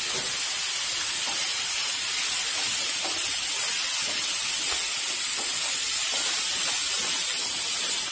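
Broccoli, carrot and scrambled egg sizzling in a hot frying pan with a steady hiss, while a spatula stirs and tosses them with a few faint scrapes.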